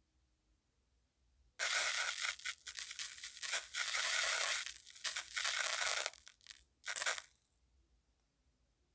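Scratchy scraping of colored sand, starting about one and a half seconds in and running for about five seconds, then two short scrapes before it stops.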